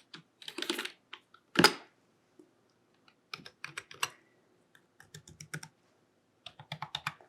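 Typing on a computer keyboard in short irregular bursts of key clicks, with one louder clack about one and a half seconds in.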